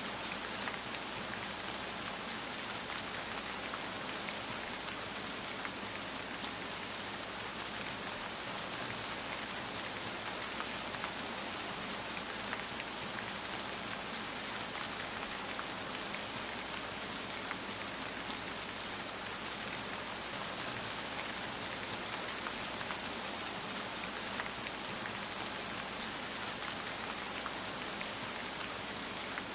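Steady rain falling, a dense even hiss of many fine drops pattering on a surface.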